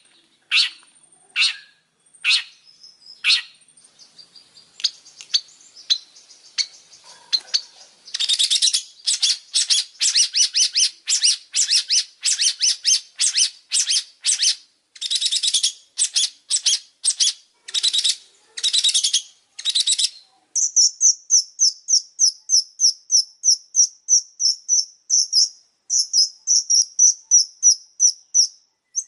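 Long-tailed shrike (pentet) singing: scattered sharp notes at first, then from about eight seconds in a fast, harsh chattering run. From about twenty seconds it switches to a rapid string of short, high, evenly spaced notes.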